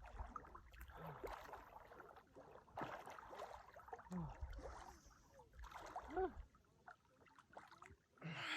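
Lake water splashing and sloshing in uneven bursts as a person swims in cold water, with a few short gasping breaths; the biggest splash comes near the end.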